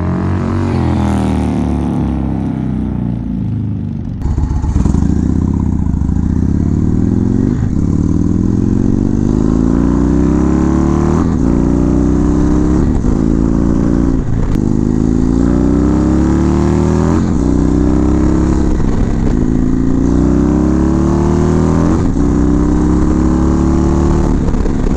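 Indian Chieftain's V-twin engine running through a Bassani True Dual exhaust, getting louder about four seconds in. Its pitch climbs again and again, each climb lasting a second or two before dropping back.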